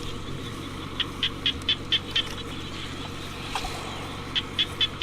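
An animal calling in a series of short high chirps, about four a second, in two bouts, over a steady low hum.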